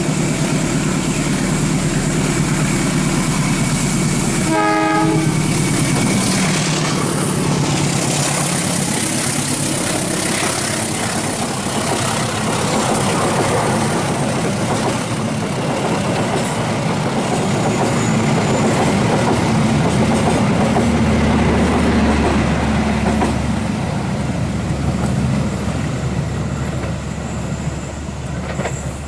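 Indonesian passenger train passing close by, with a short locomotive horn blast about five seconds in, then the steady rumble and clatter of the carriages going past, easing slightly near the end.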